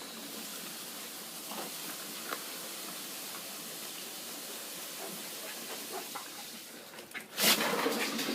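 Steady, even hiss, then a louder, brief burst of noise about seven seconds in.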